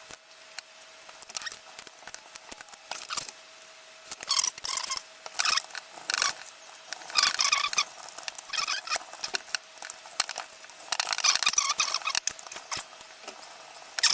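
Small screws being fitted and turned with a Torx wrench in a drone's plastic body: many light clicks and bursts of squeaky scraping, about three bursts in all.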